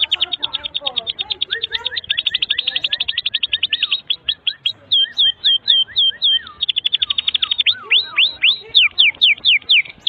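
Domestic canary singing a long, loud song of trills: rapid-fire repeated notes at about ten a second, switching to slower looping notes about four seconds in, back to a fast trill, then slower sweeping notes near the end.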